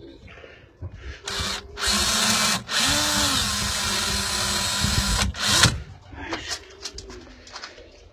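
Power drill boring holes in wood, run in several bursts: a short one, then two longer runs of a few seconds with a brief stop between, and a final quick burst.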